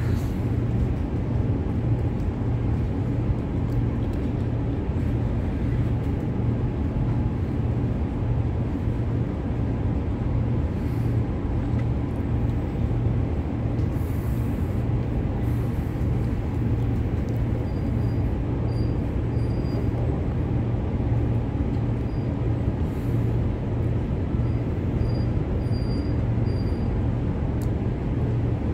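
Interior running noise of a Transperth B-series electric multiple unit on the move: a steady rumble of wheels on rail with a low hum, building up in the first second, with a few faint high chirps in the second half.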